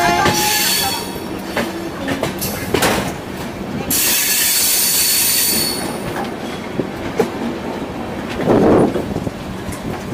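Rajdhani Express passenger train running on the track: wheels clicking over rail joints over a steady rumble. There is a high wheel squeal at the start and a louder one for about two seconds from about four seconds in.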